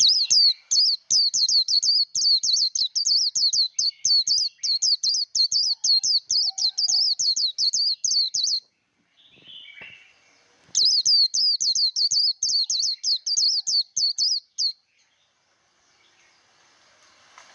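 White-eye (vành khuyên) singing its rapid, high competition song (líu đấu): quick repeated sweeping notes, several a second, in a long bout of about eight and a half seconds, then after a short pause a second bout of about four seconds.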